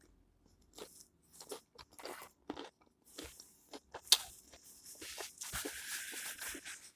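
Mouth-close crunching and chewing of a tortilla chip nacho, a run of sharp crunches with the loudest a little after four seconds in. From about five seconds in, a paper napkin rustles as hands are wiped.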